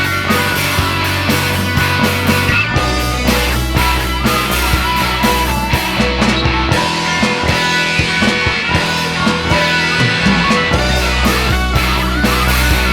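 Rock band playing an instrumental break: guitar over bass and drums with a steady beat.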